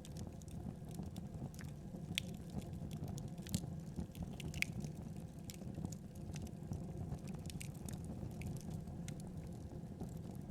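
Wood fire burning in a fireplace: a steady low rumble of flames with irregular small crackles and a few sharper pops.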